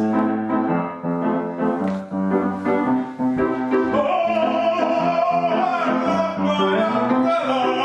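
Piano accompaniment playing steady rhythmic chords. About four seconds in, a singer comes in on one long held note with a slight waver, without clear words.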